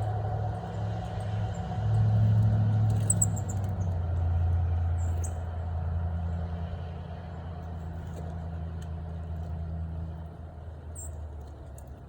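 A motor vehicle's engine running with a low hum, loudest in the first few seconds, dropping in pitch about three seconds in and fading away toward the end, as if driving off. A few short, high bird chirps sound over it.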